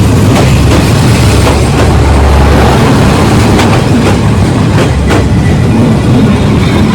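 A train passing at close range: a loud, steady low rumble with wheels clicking irregularly over the rail joints.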